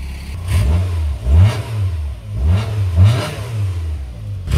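A Rover hatchback's engine running with its revs rising and falling over and over, about twice a second. The car is smoking from the exhaust and the engine is not happy.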